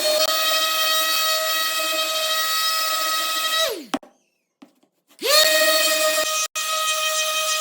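Electric power tool motor running with a steady high whine. It winds down and stops a little under four seconds in, then starts again and spins back up to speed about a second and a half later.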